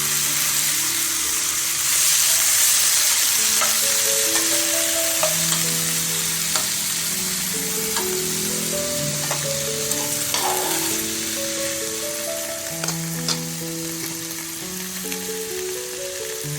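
Food sizzling as it fries in hot oil in a pan, with scattered clicks of a utensil stirring it against the pan. A melody of background music plays underneath.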